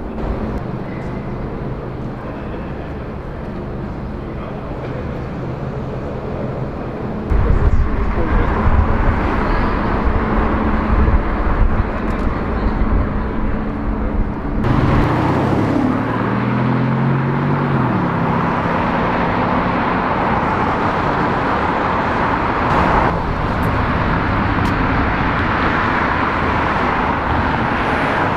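Sports car engines on a city street, heard in several short clips that cut from one to the next: a steady engine hum, then a louder rumble. About halfway through, an engine revs with a rising pitch as the car accelerates away.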